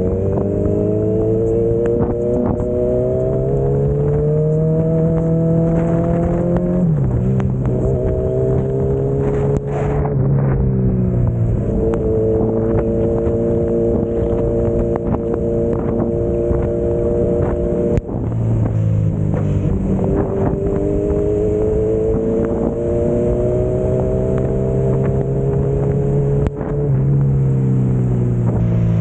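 Kawasaki Z900 inline-four motorcycle engine pulling through the gears, its pitch climbing slowly and then dropping sharply at each of several upshifts, with wind rushing over the microphone.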